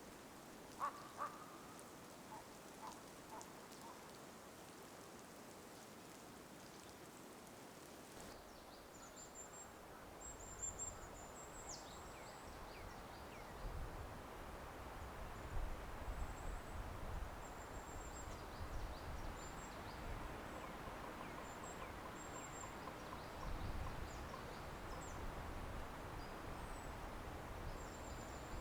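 Small birds giving short, very high chirps again and again over a low outdoor rumble, with a few faint ticks in the first seconds.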